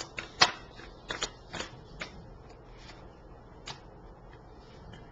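Tarot cards being shuffled by hand: a quick run of sharp card snaps and flicks in the first two seconds, then a few light single taps as the shuffling slows.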